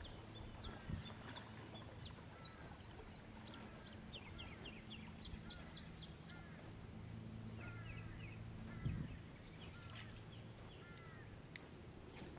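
Birds chirping and singing in short, quick repeated notes over a faint steady low hum, with two soft thumps, one about a second in and a louder one near nine seconds.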